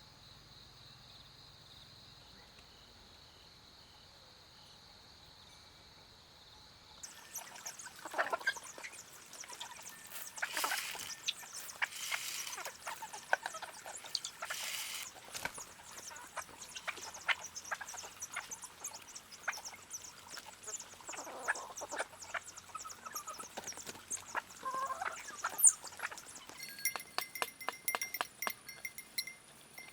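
Farmyard chickens calling, with many short clicks and scratching noises among them. Before that, a faint steady insect drone; near the end, a bell clinking rapidly.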